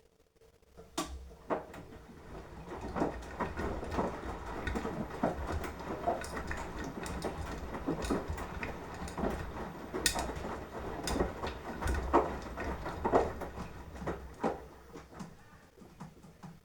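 Beko washing machine drum turning during the wash, tumbling the wet laundry: a low motor rumble with irregular thuds and knocks. It starts about a second in and fades out near the end as the drum stops for a rest.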